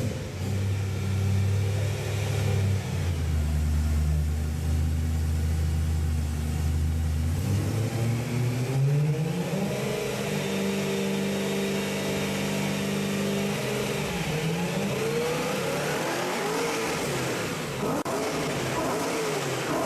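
BMW 3 Series engine through an aftermarket muffler, idling steadily, then revved up and held for about four seconds before dropping back. Near the end it is blipped in quick rises and falls, about one a second.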